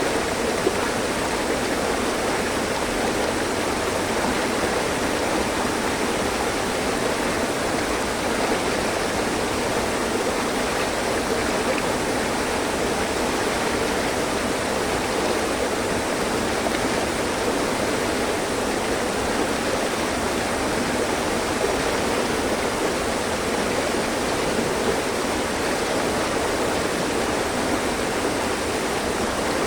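Mountain stream: water rushing and splashing steadily over rocks.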